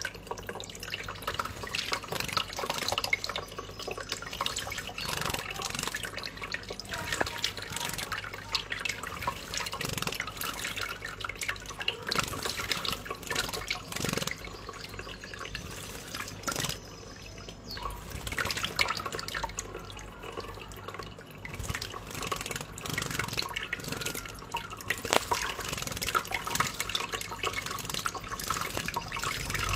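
Water running and splashing into cupped hands, with many irregular small splashes and drips as a tiny bird bathes in it.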